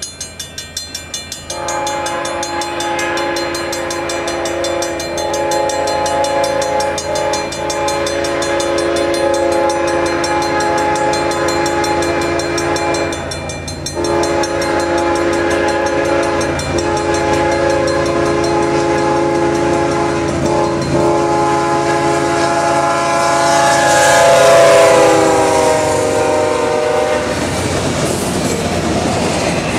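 A diesel freight locomotive's air horn sounds a chord in two long blasts for a grade crossing, the second held until its pitch slides down as the locomotive passes. The rumble and clatter of the passing double-stack cars follow. A crossing bell clangs at the very start.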